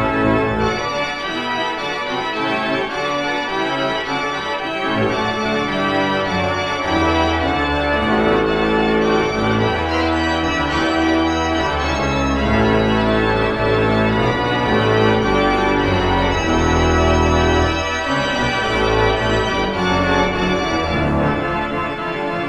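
Church organ playing a fast toccata: rapid running notes over long, held bass pedal notes that come in about five seconds in.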